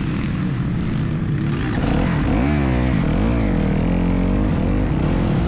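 Motocross bike engine running hard, its pitch dipping and climbing several times from about two seconds in as the throttle is rolled off and on.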